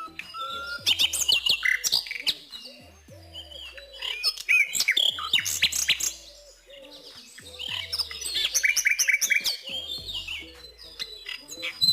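Birds chirping in quick, high-pitched flurries, coming in three spells.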